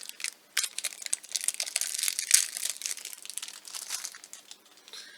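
Plastic wrapping crinkling and rustling in irregular crackles as a small blind-box figure and its parts are unwrapped by hand.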